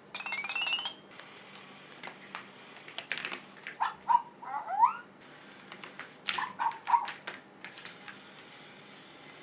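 A mini RC helicopter's small electric motor buzzes with a whine rising in pitch for about the first second. Then come two clusters of short, high-pitched pet calls with upward glides, about four seconds in and again about six seconds in, among scattered clicks and taps.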